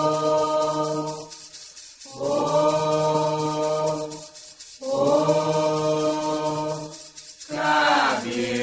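Voices chanting a sacred song for the orixá Xangô, holding three long, steady notes with short breaks between them.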